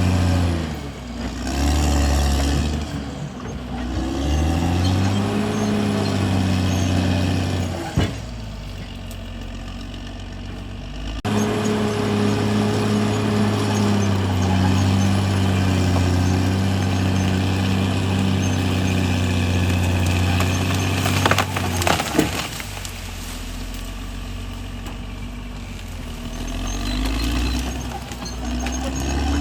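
CAT D6R XL bulldozer's diesel engine running under changing load, its pitch rising and falling. A sharp knock comes about a quarter of the way in, and a cluster of knocks about three-quarters of the way in, each followed by a quieter stretch.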